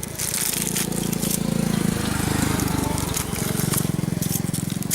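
Motorcycle engine running close by, with a fast, even pulsing beat.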